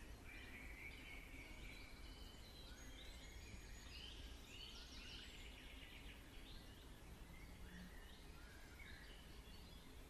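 Faint wild birdsong: several small birds giving short chirps and trills, with a denser trill about five seconds in, over a steady low outdoor rumble.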